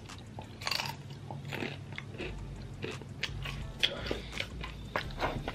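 Tortilla chips bitten and chewed close to the microphone: a string of sharp, irregular crunches.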